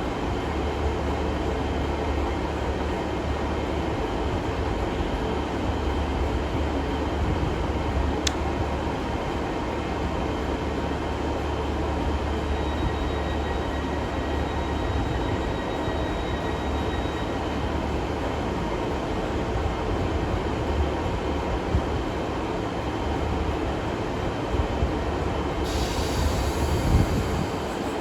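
Great Western Railway diesel multiple unit running through the station with a steady low rumble, one sharp click partway through and a faint high wheel squeal for a few seconds in the middle.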